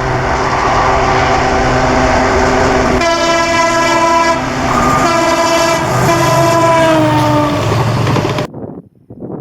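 EMD WDG 4D diesel locomotive passing with its horn sounding in two long blasts, the second dropping in pitch as the locomotive goes by, over engine and rail noise. The sound cuts off abruptly near the end.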